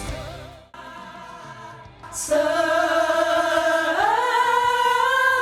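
Soprano voices singing a long held vowel on one note, then gliding up to a higher note about four seconds in and holding it. It is preceded by a quieter stretch of sustained background tones.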